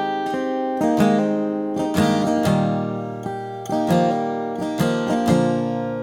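1947 Martin D-18 mahogany-bodied dreadnought acoustic guitar played solo, chords strummed about once a second and left to ring between strokes.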